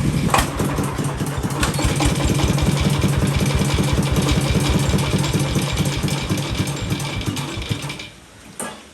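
Tractor engine running steadily with an even pulsing beat, then cutting off suddenly about eight seconds in.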